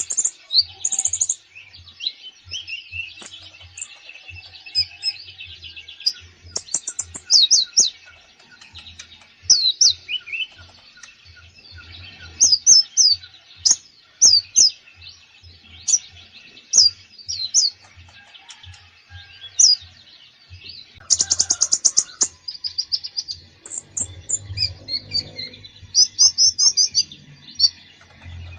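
Konin songbird singing non-stop in full 'gacor' song: a quick string of sharp chirps and whistled notes of varied phrasing, with a rapid buzzy trill about three-quarters of the way through. Faint low pulses sound underneath.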